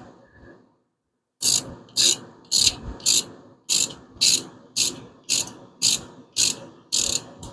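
Hand ratchet wrench worked back and forth in short strokes, about a dozen evenly spaced clicking runs at roughly two a second, starting about a second and a half in.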